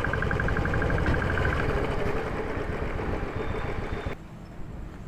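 Vehicle engine running with a fast ticking for the first second or so; the sound cuts off abruptly about four seconds in, leaving a quieter background.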